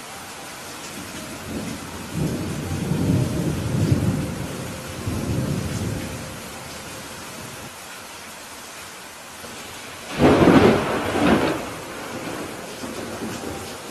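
Steady rain falling, with thunder rolling low for several seconds from about two seconds in. A louder, sharper thunderclap follows about ten seconds in and fades within a couple of seconds.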